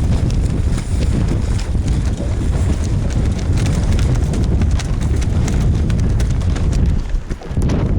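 Wind buffeting the microphone in a low, steady rumble, with many small irregular clicks and knocks over it.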